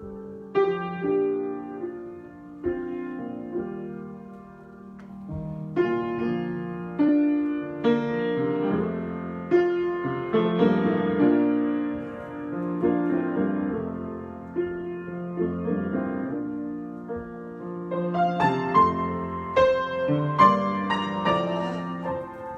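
Solo piano improvisation: slow chords and melody notes struck and left to ring, growing busier with higher notes near the end.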